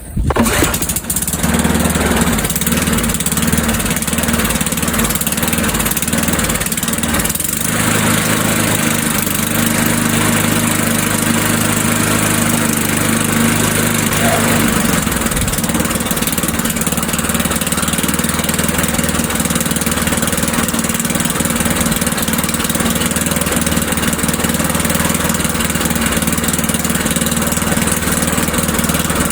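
Tecumseh four-stroke lawnmower engine restarted without priming on low throttle. It catches about a second in and then runs steadily with a loud exhaust. Its running speed shifts slightly twice, about 7 and 15 seconds in.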